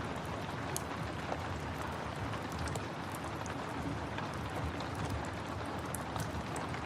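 Steady rain hiss mixed with the irregular sharp crackles and pops of a wood fire burning in a fireplace.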